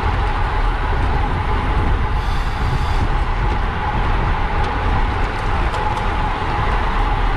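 Wind rushing over the microphone of a camera on a bicycle moving at racing speed: a loud, steady low rumble, with a few faint ticks.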